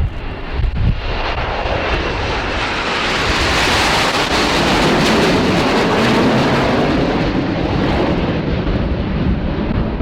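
An aircraft flying past, its engine noise swelling to a peak about halfway through and then fading.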